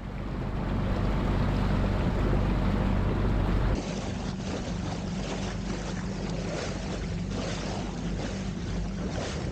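The sailboat's motor running steadily under way, a low even hum, with wind and water noise over it. About four seconds in, the sound cuts and goes on a little quieter.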